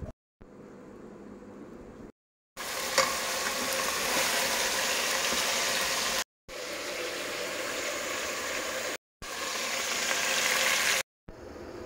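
Food sizzling in a hot pan: a steady hiss in several short stretches broken by brief silent gaps, with one click about three seconds in.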